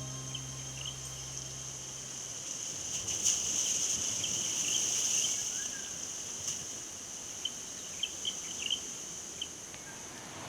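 Insects trilling: a steady, high-pitched continuous song that swells for a few seconds in the middle, with a few short high chirps scattered through it.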